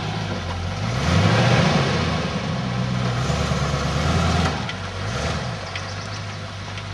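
1979 Lincoln Continental Mark V's V8 engine accelerating, its pitch rising and falling, then easing off about four and a half seconds in.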